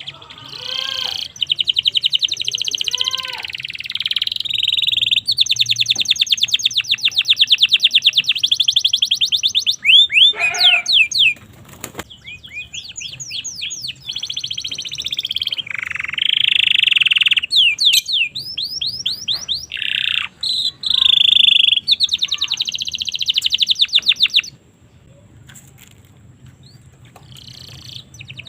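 Domestic canary singing: fast, high trills and rolls in phrases of a few seconds each, with short breaks and a quieter pause near the end.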